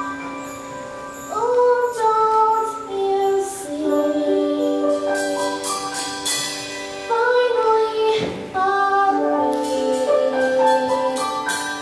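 A woman singing a slow ballad in long held notes that slide between pitches, over a soft instrumental accompaniment.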